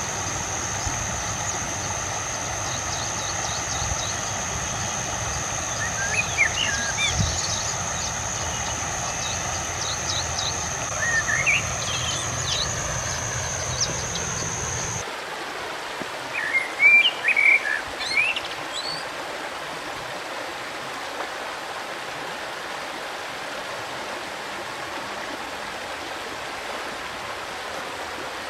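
River water flowing steadily, with small songbirds chirping in short bursts every few seconds. A low rumble and a steady high whine underneath stop abruptly about halfway through.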